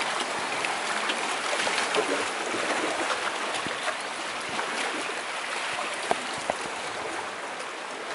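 Sea water washing steadily onto the shore, a continuous rushing wash with scattered small clicks.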